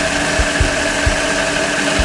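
Miniature V-16 engines of a model liner engine room running steadily, a hum with irregular low thumps a few times a second.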